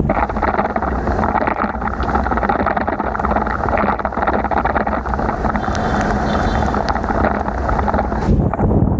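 Steady wind buffeting the microphone of a bicycle ride in heavy rain, with the hiss and rumble of wet-road riding underneath.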